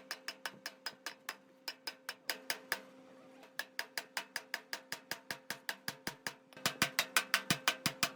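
Rapid, regular clicking, about five to six clicks a second, with a short lull about three seconds in and louder clicks near the end, over a faint steady low hum.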